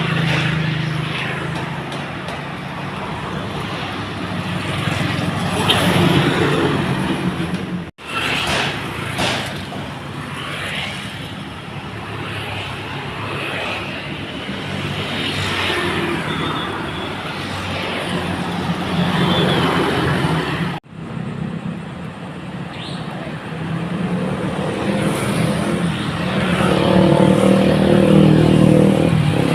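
Loaded dump trucks' diesel engines running as they pass, with traffic and road noise. The sound cuts off abruptly twice, about eight seconds in and again about twenty-one seconds in, where one clip changes to the next.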